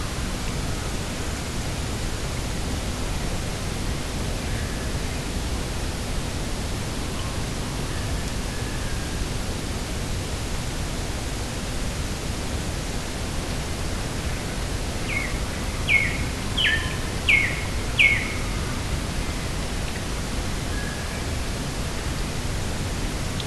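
Steady rushing wind noise over open coastal grassland. About two-thirds of the way in, a bird gives five short, quick descending calls.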